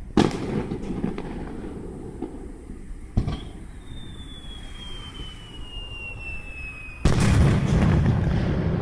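Aerial fireworks bursting: a sharp bang just after the start, another about three seconds in, a long whistle falling in pitch, then a louder bang about seven seconds in with a rumbling crackle that carries on.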